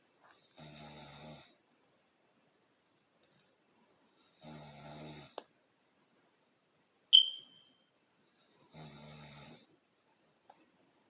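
Snoring: three snores about four seconds apart, each lasting about a second. A short high ping that rings off quickly, about seven seconds in, is the loudest sound.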